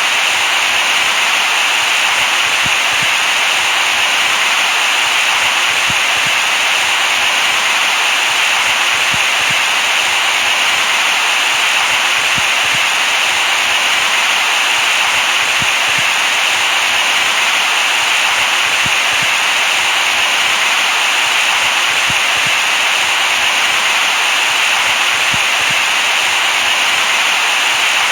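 Continuous white noise: a steady, even hiss, bright, with little bass, that does not change.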